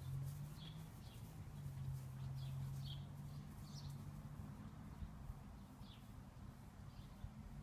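Small birds chirping faintly: short high chirps, one every second or so, over a low steady hum.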